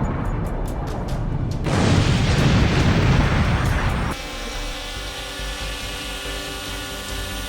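Deep rumbling blast noise from an airstrike explosion, swelling louder about two seconds in, then cut off abruptly a little after four seconds by steady background music.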